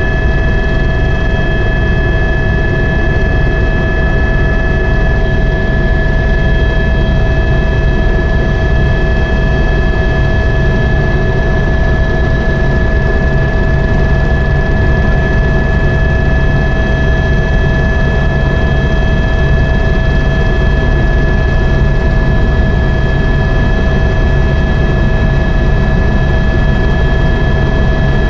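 Helicopter in flight: a steady, loud rumble of rotor and engine with a constant high whine over it.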